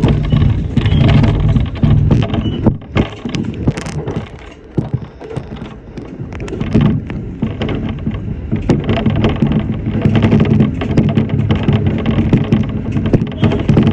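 Electric commuter train running, heard from just behind the cab: a steady low rumble and hum with many irregular clicks and knocks from the wheels and track.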